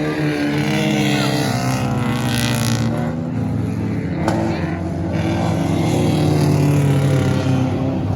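Several stock car engines running hard during a race, their pitches overlapping and rising and falling as the cars circle the track.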